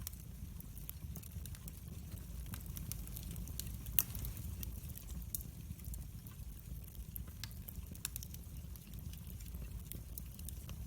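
Wood fire crackling in a fireplace: a steady low rumble under scattered pops and snaps, with one sharper pop about four seconds in.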